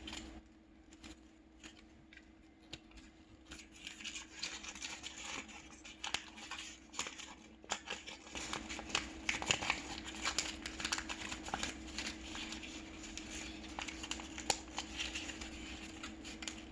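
Paper being folded and creased by hand, with irregular rustling and crinkling, sparse at first and busier from about four seconds in.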